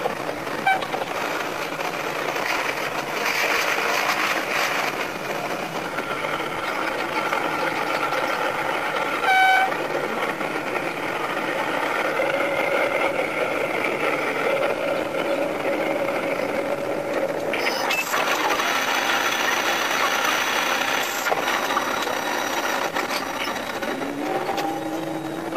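Sanriku Railway 36-200 diesel railcar running along the line, its noise sped up five times into a fast, busy clatter. A short horn blast sounds about nine seconds in. Steady whining tones join the running noise in the second half as the railcar nears a station.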